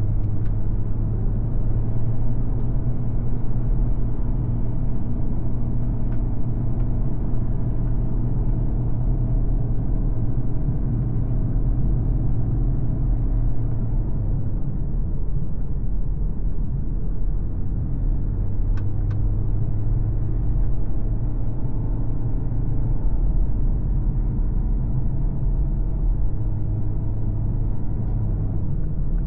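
MG ZS Hybrid+ driving on a road, its petrol engine running at a steady drone over low tyre and road rumble, the engine note shifting a little in pitch now and then.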